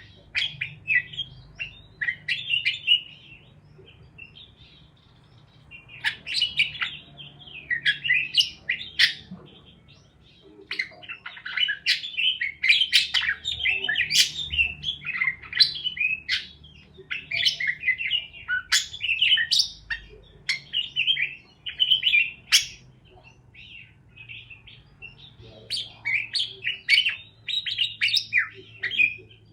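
Pet parakeets chirping and warbling in rapid, busy bouts, broken by a few short lulls.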